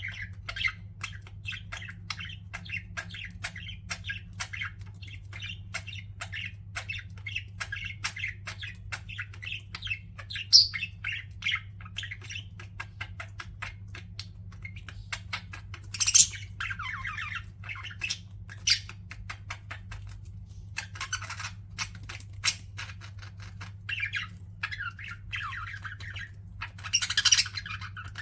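Pet budgerigars chattering: a continuous run of fast warbling chirps and clicks, broken by a few louder squawks, the loudest about ten seconds in, and a cluster of them near the end.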